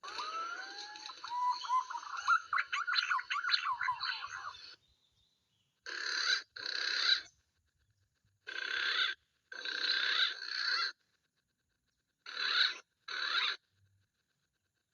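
Bird calls: a run of quick rising chirps, then six short bursts that start and stop abruptly, with dead silence between them.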